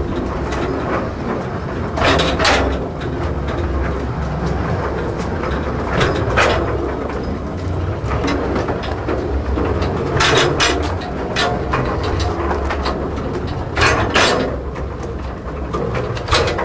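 Narrow-gauge railway wagon rolling through a tunnel: a steady low rumble, with the wheels clicking over rail joints in pairs about every four seconds.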